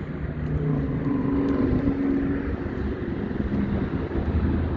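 Heavy diesel truck engine idling steadily with an even low rumble.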